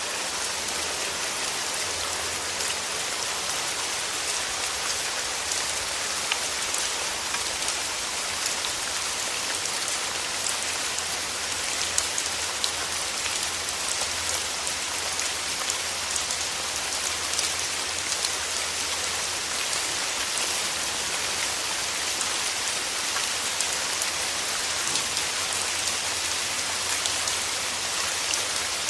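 Steady rain, with a dense patter of individual drops ticking over an even hiss. A low steady rumble runs underneath.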